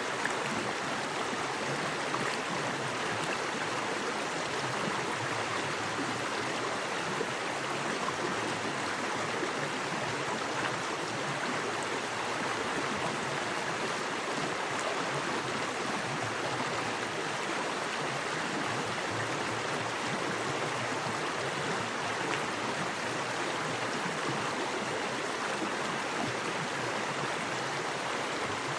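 Small creek running fast over rocks: a steady rushing of water with gurgling, even and unchanging throughout.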